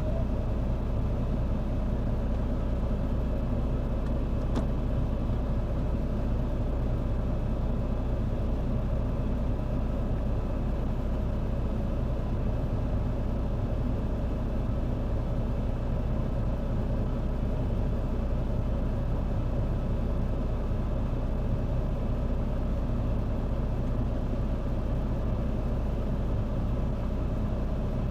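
Vehicle engine running steadily, a constant low drone that does not change in pitch or level, with one faint click about five seconds in.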